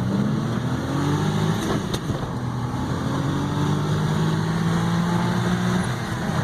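Suzuki Carry kei truck's 660 cc three-cylinder engine pulling under acceleration. Its pitch rises, drops back just under two seconds in, rises again, then holds steady.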